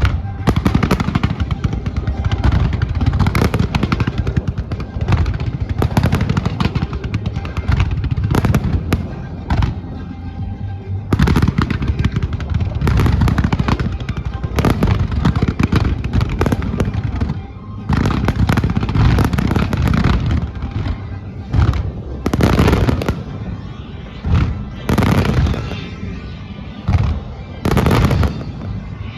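A dense barrage of fireworks shells bursting, with rapid overlapping bangs and bright crackles, over loud show music from the loudspeakers.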